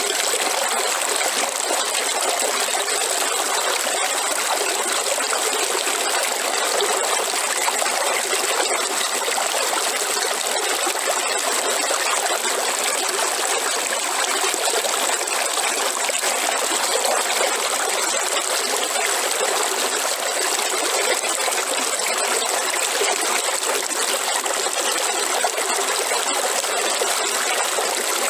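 River water flowing and trickling over stones, a steady, even rush.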